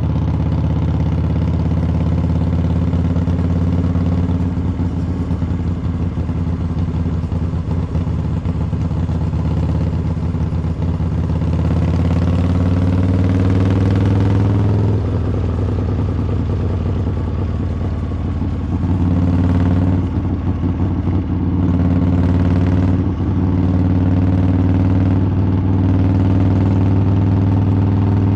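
Harley-Davidson V-twin motorcycle exhaust while riding. The engine note climbs steadily under throttle through the middle, drops suddenly at a gear change, then holds steady with a few brief dips as the throttle is eased.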